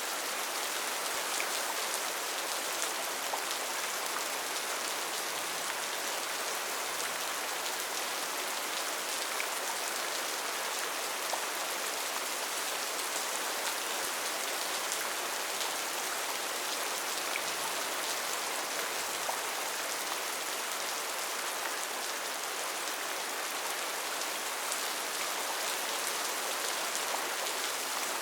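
Steady rain falling in a rainforest, a constant hiss with many small drop ticks and no thunder or speech.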